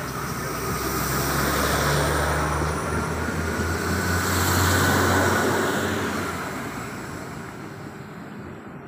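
Electric passenger train moving through the station: steady rail and running noise with a faint whine that rises and falls. It is loudest about two and five seconds in, then fades as the train draws away.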